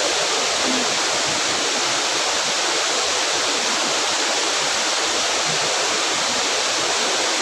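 A waterfall's falling water making a loud, steady rush.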